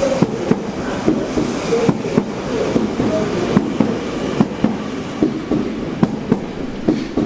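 A train rolling past, its wheels clattering over rail joints and points in a quick, irregular run of sharp knocks over a steady rumble.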